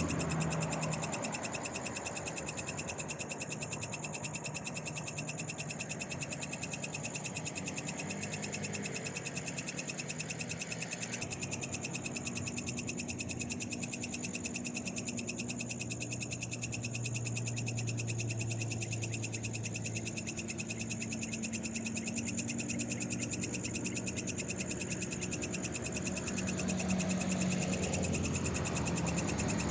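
Night-time chorus of frogs and other night creatures: a continuous fast-pulsing trill with steady high-pitched buzzing. A low hum swells underneath in the middle and fades again.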